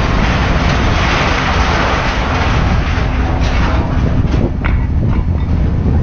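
Vehicle engine idling, a steady loud rumble, with a few sharp metallic clanks about four to five seconds in.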